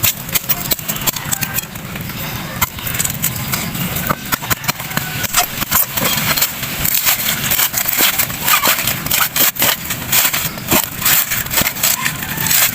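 A blade chopping into a coconut: sharp, irregular knocks and cracks, several a second, over a steady low hum.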